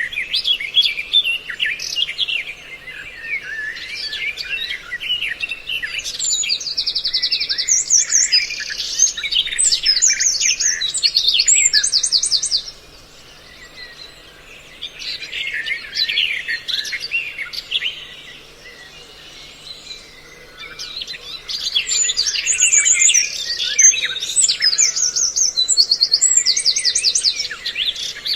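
A dense chorus of songbirds chirping and twittering, with rapid high trills rising above it, thinning out for a moment about halfway through and again a little later. This is a mixed bird-call lure recording of the kind played to draw birds in to traps.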